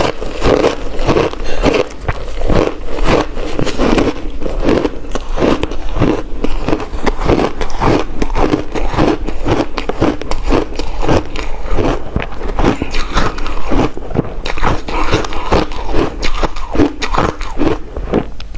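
A person biting and chewing ice: a fast, uneven run of loud, crisp crunches that goes on without a break.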